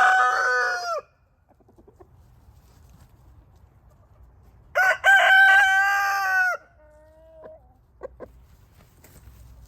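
Rooster crowing: the end of one crow, then a second full crow about five seconds in that lasts nearly two seconds, followed by a few short, soft calls.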